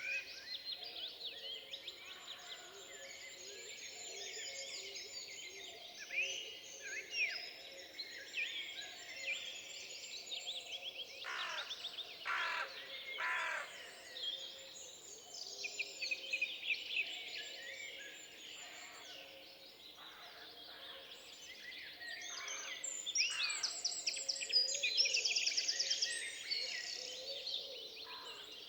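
Many songbirds singing over one another, a dense chorus of quick whistles, trills and chirps. A few louder, harsher calls come about twelve seconds in, and the chorus is loudest near the end.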